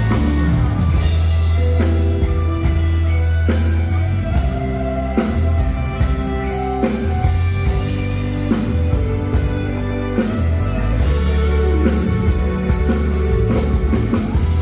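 A live band playing an instrumental passage with no singing: drum kit beat, bass and keyboard.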